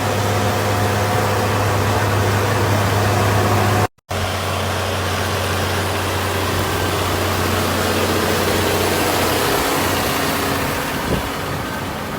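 An engine running steadily at an even speed, cut off sharply about four seconds in and resuming straight away with a slightly different, noisier tone.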